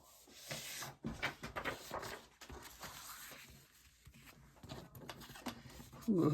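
Paper rustling and small taps and clicks as sheets of craft paper are handled on a work table.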